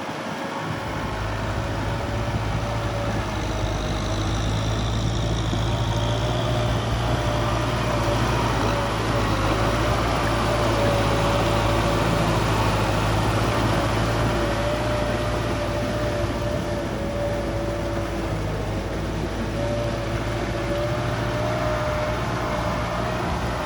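Kubota tractor's diesel engine running steadily while working a rotary tiller, a low, even engine note with a slightly wavering whine above it.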